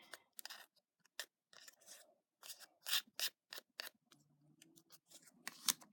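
A dozen or so quick snipping and rubbing strokes from hands working a small paper craft piece, with a pause of about a second near the end. This is stray hot-glue strings being cleared from a paper banner.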